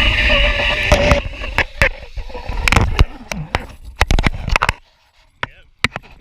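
Zip line trolley pulleys whining along the steel cable, the whine cutting out about a second in, followed by a run of sharp metal clicks and knocks. Wind rumbles on the microphone until it dies away near the end.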